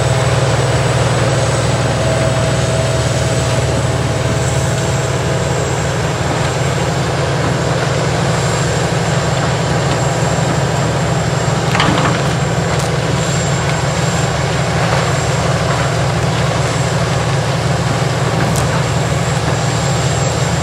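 Heavy diesel equipment (an 80,000-pound tracked horizontal grinder chipping tree tops and branches) running with a steady, loud low drone. A few short sharp knocks stand out, one about twelve seconds in.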